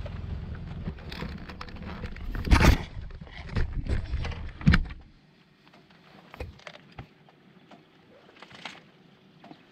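Motorcycle engine idling under knocks and clatter close to the microphone, with two loud thumps about two and a half and four and a half seconds in. The engine is switched off about five seconds in, leaving only faint clicks.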